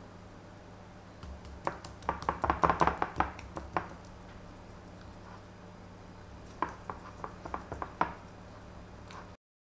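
Hands pressing and patting seasoning into raw pork steaks on a ceramic plate: two bunches of quick taps and soft slaps, over a steady low hum. The sound cuts off suddenly just before the end.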